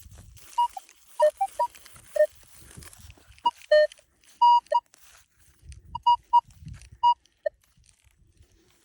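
Minelab Equinox 800 metal detector giving short, irregular beeps at a higher and a lower pitch as it is swept over the dug hole, signalling that the target is still in the hole. Light scraping and handling sounds come about six to seven seconds in.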